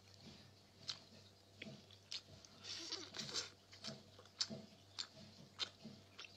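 A person chewing pieces of pork close to the microphone: soft wet smacks and mouth clicks at an irregular pace, about one or two a second, with a brief hissy stretch about three seconds in.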